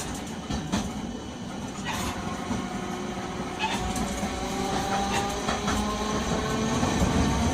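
Nagasaki Electric Tramway 370-series tram pulling away and gathering speed: motor whine rising slowly in pitch over a steady running rumble, with a few sharp clacks from the wheels on the rails.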